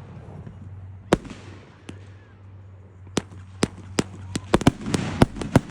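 Fireworks going off: one sharp bang about a second in, then from about three seconds a quickening series of sharp cracks and pops.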